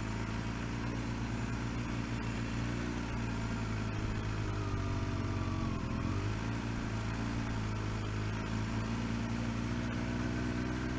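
Kawasaki H2 SX SE's supercharged inline-four running at low road speed, heard from inside a full-face helmet's chin guard. The engine note sags about five seconds in and picks up again near six seconds.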